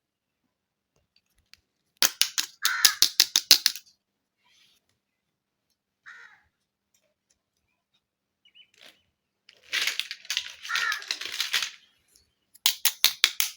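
Plastic toy pieces and packaging being handled, in three bursts of rapid crisp clicking and crackling: about two seconds in, around ten seconds, and again near the end.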